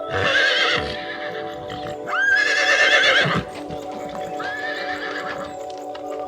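A horse whinnying three times, each a wavering call about a second long, the middle one the longest and loudest, over steady background music.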